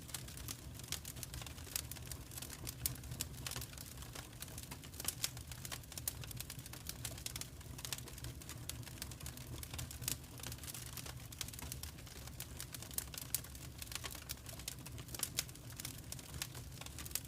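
Fire in a fireplace crackling, with frequent irregular snaps and pops over a low, steady rumble of the flames.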